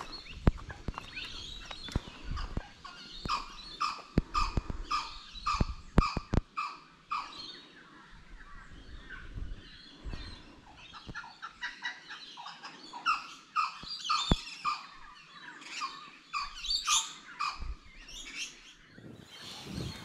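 A bird calling in quick repeated notes, about two or three a second, in long runs through most of the stretch, with footsteps on wet swamp mud in the first few seconds.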